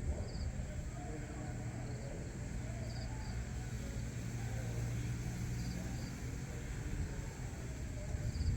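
Outdoor ambience: a steady low rumble, with a small bird giving a short, high double chirp about every one to two seconds.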